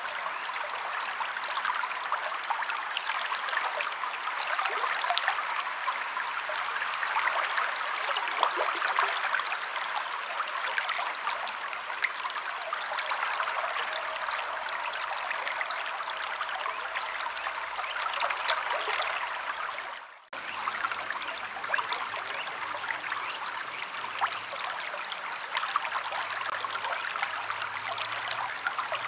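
Stream water flowing and trickling steadily, with a few faint short bird chirps. The sound cuts out for a moment about two-thirds of the way through.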